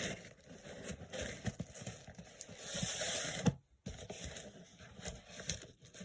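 Hands opening a package, with scraping and rustling of packaging and small knocks and clicks. The rustling is heaviest just before the middle, and the sound cuts out briefly about three and a half seconds in.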